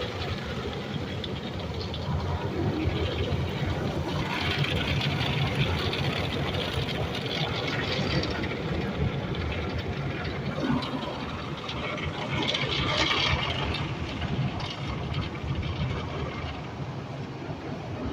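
Automatic car wash tunnel machinery heard from inside the car: a steady rumble and washing noise, with the hiss swelling twice, a few seconds in and again past the middle.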